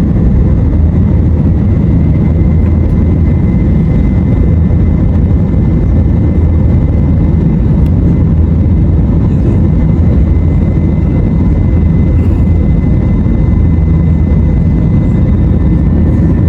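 Jet airliner engine noise: a loud, steady low rumble with a faint steady high whine over it.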